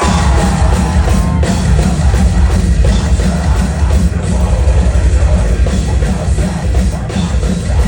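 Metalcore band playing live at full volume, heavy distorted guitars and bass over pounding drums, kicking in suddenly at the start.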